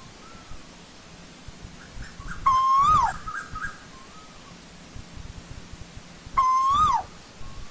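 Asian koel calling: two loud whistled notes about four seconds apart, each holding level, then rising and dropping off sharply. Faint softer notes come between them.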